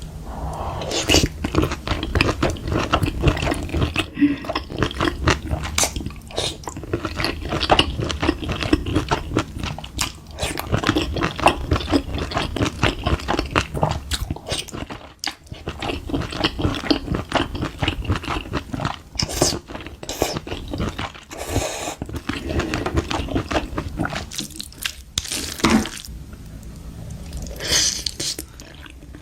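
Close-miked mukbang eating: a person biting and chewing crunchy food, a dense run of wet crunches and smacks with only brief pauses.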